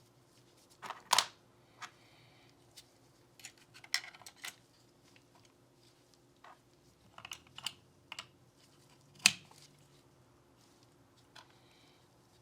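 Scattered hard clicks and taps of Glock 19 pistol parts being handled and worked on, a few of them sharp, the loudest about nine seconds in.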